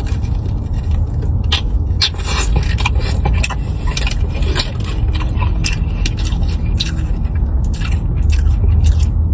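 Close-up chewing and crunching of breaded fried mozzarella sticks, with many short crackles and clicks from the mouth, over a steady low rumble.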